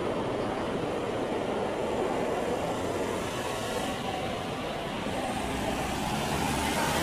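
Boeing 737-800 airliner approaching to land, its twin CFM56 turbofans giving a steady rumble with a rushing hiss, growing louder near the end as it comes closer.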